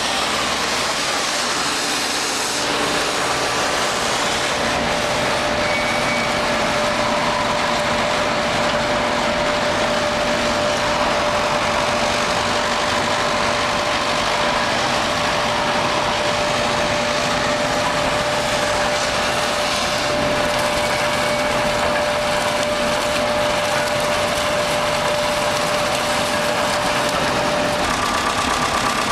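Large industrial wood chipper/grass crusher running, a steady dense mechanical din with a constant whine held through most of it.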